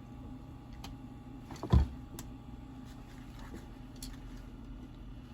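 Parts of an angle grinder being handled during reassembly: a few small clicks and one louder knock a little under two seconds in, over a faint steady hum.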